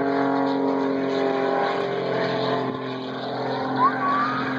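Aerobatic airplane's propeller engine droning overhead, its pitch easing down slightly over the first two seconds and then holding steady. A short rising chirp is heard near the end.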